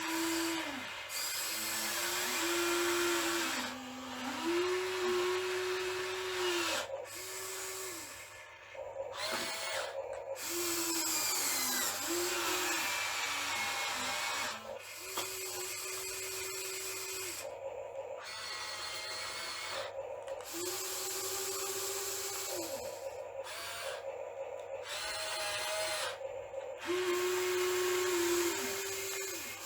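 Small electric motors of an RC excavator whining in short spurts of one to three seconds, each spinning up, holding and winding down as the machine is worked, over a steady hiss.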